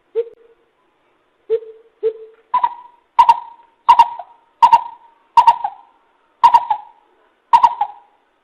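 Greater coucal calling: three low hoots, then a steady series of about seven higher hooting notes, a little under one a second.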